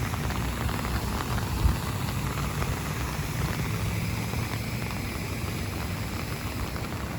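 Tropical-storm weather: a steady hiss of rain and wind with a low rumble of wind on the microphone, and one brief knock a little under two seconds in.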